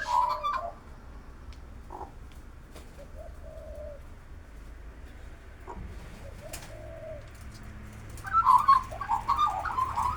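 A dove cooing: two short, low, steady-pitched coos a few seconds apart, followed near the end by a louder jumble of sounds.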